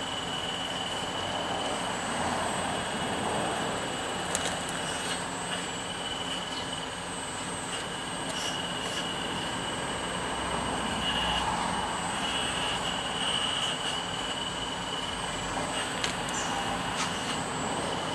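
Radio-controlled hydraulic excavator running, its pump giving a steady high whine that strengthens for a few seconds past the middle as it works, with a few sharp clicks.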